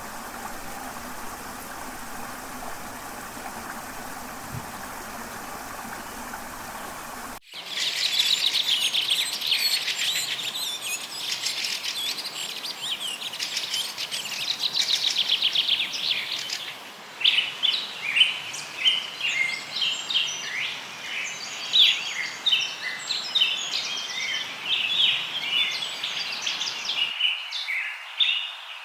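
A steady rushing noise for about the first seven seconds, then after an abrupt cut a dense chorus of jungle birds chirping and trilling, with fast trills at first and quick separate chirps later.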